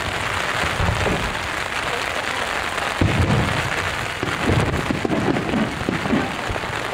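Steady heavy rain and wind noise, with several deep booms from aerial fireworks bursting. The loudest boom comes about three seconds in.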